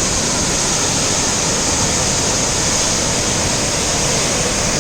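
Fast, powerful river water rushing, a loud steady noise: the Kaveri river in full force.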